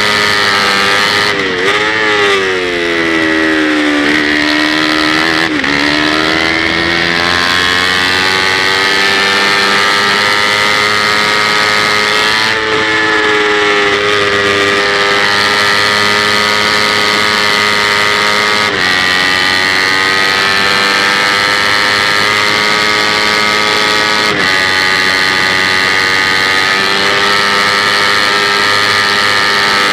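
Kawasaki Ninja 250 race bike's parallel-twin engine at high revs, heard on board with wind rush. About two seconds in the pitch drops in steps with throttle blips through a run of downshifts, and again around five seconds in. Then it climbs and holds high, with short breaks at gear changes.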